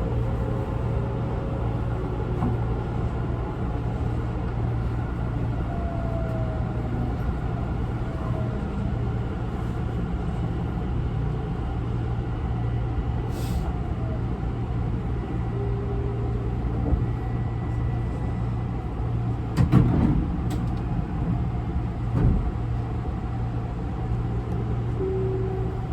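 Interior running sound of a Tobu 50090 series electric train car: a steady low rumble and hum with faint gliding traction-motor tones. Several sharp knocks come about twenty seconds in. The uploader finds this car's motor sound unusual and suspects it has a different type of motor.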